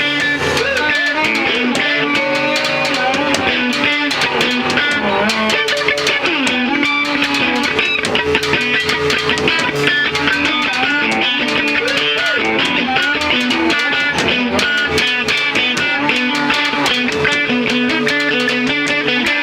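A band playing: guitars with bass guitar and drums.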